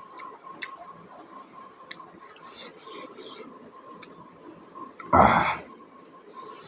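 Close-miked eating sounds: chewing, wet mouth clicks and lip smacks, with a louder bump or slurp about five seconds in. A faint steady tone sits underneath.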